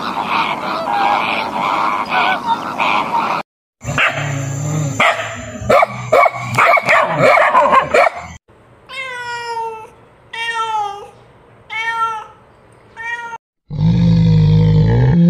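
A run of animal sounds in short clips. First a flock of flamingos honking and chattering. After a brief gap comes a stretch of harsh calls and clicks, then four drawn-out cries falling in pitch. Near the end is a brown bear's loud, low growl.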